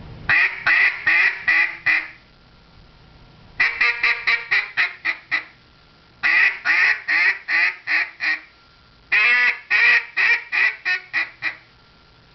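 Duck call blown in four strings of quacks, five to eight quacks per string, each quack cut off crisply with the tongue before the next, with short pauses between the strings.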